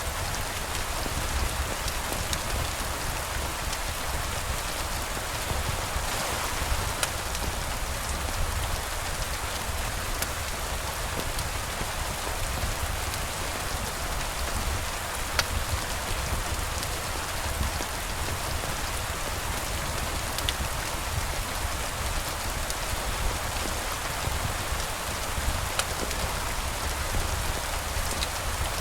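Steady rain falling, an even hiss with a low rumble underneath and scattered sharp drip ticks.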